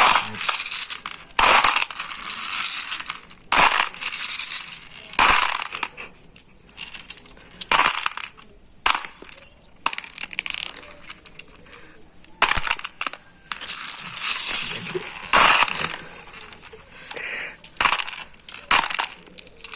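Glass marbles clattering as they are poured in, in repeated bursts of about a second each with short pauses between.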